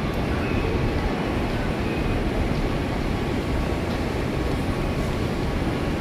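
Hanshin Railway electric train running out of the station, a steady rumble of wheels and traction motors.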